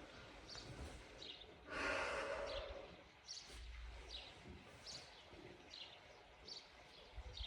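A small bird chirping over and over, short high notes less than a second apart, with one breathy whoosh lasting about a second near two seconds in.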